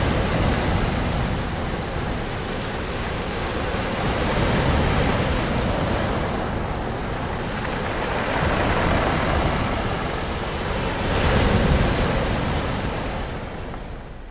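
Ocean waves breaking and washing on a shore, a continuous surf roar that swells four times, every three to five seconds, and fades away near the end.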